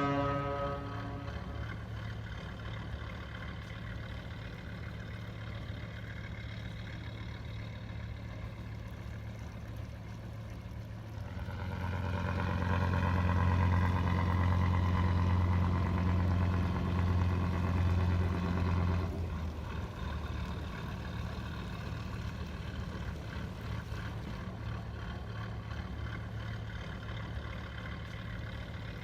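Engine running with a steady low hum, growing louder about twelve seconds in and dropping back after about seven seconds.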